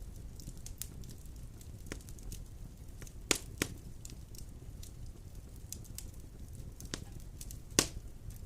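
Wood fire burning in a fireplace: a steady low rumble of flame with scattered sharp crackles and pops, the loudest about three seconds in, just after that, and near the end.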